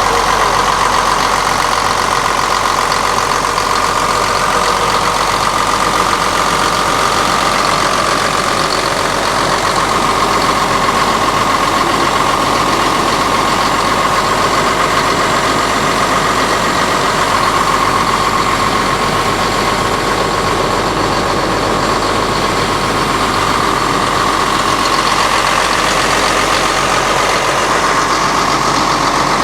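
Mitsubishi diesel engine of a 1993 Kato excavator running steadily at idle.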